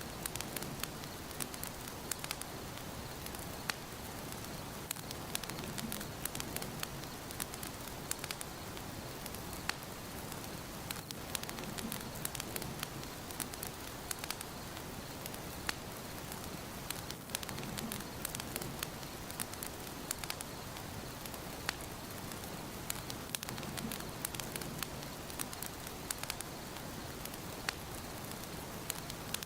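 Fire burning in a fireplace: a steady hiss of flames with frequent sharp, irregular crackles and pops, and a soft low swell about every six seconds.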